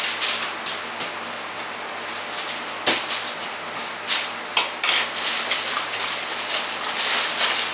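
Kitchen handling noises while steak is set to marinate: light clatter and rustling, with a sharp knock about three seconds in and a short rattle about five seconds in.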